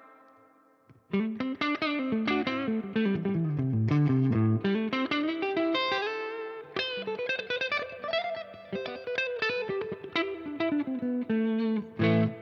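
Les Paul-style electric guitar played through a Fender Blues Junior IV 15-watt all-tube amp with a light overdrive, heard through a 4x12 speaker-cabinet impulse response rather than a miked speaker. After a note dies away into about a second of near silence, a single-note blues lead phrase runs down to low notes and back up again.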